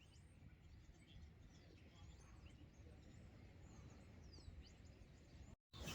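Near silence: faint outdoor ambience with a low rumble and scattered distant bird chirps. The sound cuts out completely for a moment near the end.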